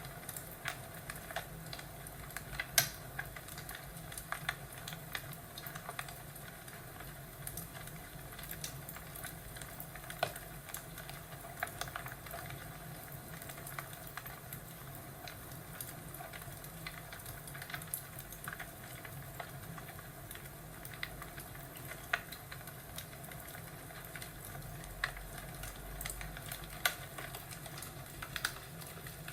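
Crackling fireplace: irregular pops and snaps over a steady low hiss, with one louder pop about three seconds in.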